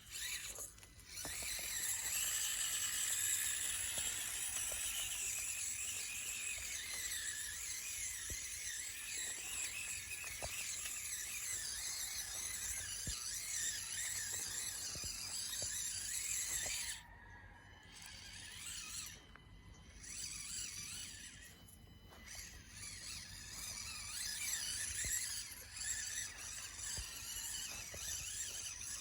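Small radio-controlled truck's electric motor and gears whining at high pitch, the pitch changing with the throttle and falling once a few seconds in, and cutting out briefly a few times in the second half.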